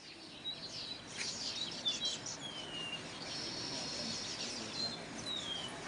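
Birds chirping and calling: several short high whistles that slide downward, and a high trilling note for about a second in the middle.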